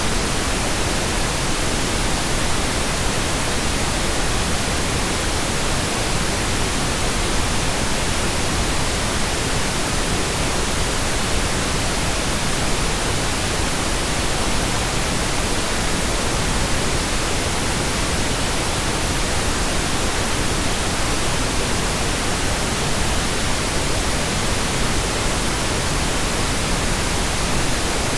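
Steady, continuous pink noise generated by computer: an even hiss spread across all pitches, unchanging throughout.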